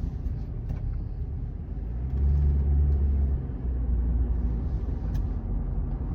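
Car driving, heard from inside the cabin: a steady low road-and-engine rumble that swells louder for a second or so about two seconds in.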